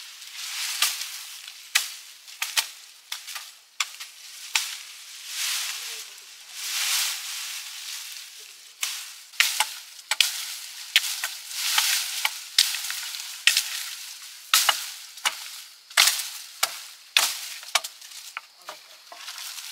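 Food sizzling in a hot pan as it is stirred, with irregular sharp clicks and scrapes and hissing swells that rise and fall every second or two.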